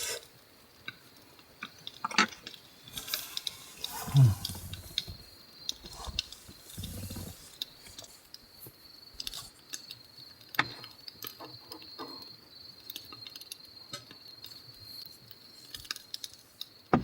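Scattered small clinks and knocks of dishes and glassware being handled, with soft handling noises in between; the loudest knock comes about four seconds in.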